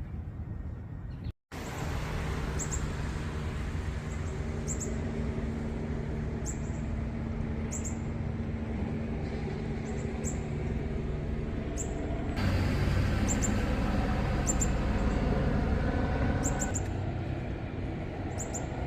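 Short, high bird chirps repeating about once a second over a steady low hum, with an abrupt cut about a second and a half in and another change about twelve seconds in.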